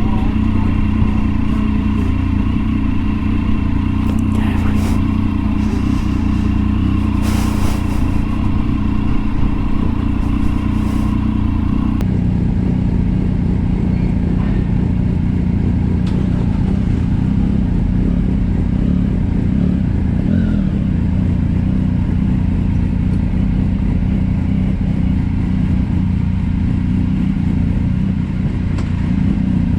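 Motorcycle engine running steadily at road speed, with wind rush, heard from on the bike. The sound changes abruptly about twelve seconds in.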